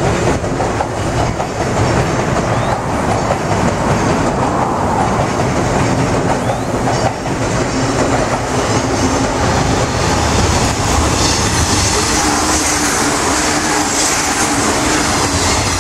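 Trains running: a train rumbling across the steel truss bridge, then the JR 189 series electric train approaching on the near track and passing close at speed, its wheels clattering. In the last few seconds a high hiss and a steady hum build as the cars go by.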